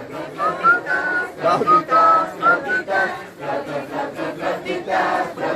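A group of young people singing along and imitating flutes with their voices. A high, thin tune of short notes sits over many voices chanting together.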